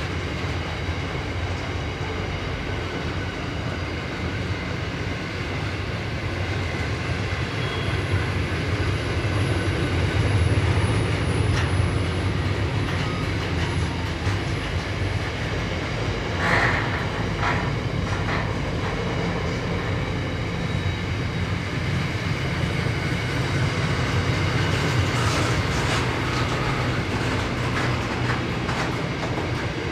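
Container freight train wagons rolling past at steady speed: a continuous rumble of steel wheels on rail with some clickety-clack. A few short, sharper wheel noises come about halfway through and again near the end.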